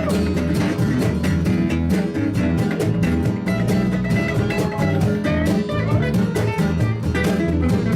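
Live band playing an instrumental passage between sung verses, with guitar prominent and a steady rhythmic beat.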